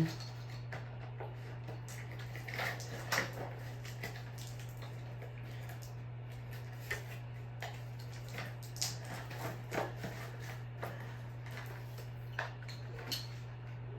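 Harbor Breeze Whitestar 52-inch ceiling fan coasting down after being switched off, with scattered light clicks and ticks over a steady low hum.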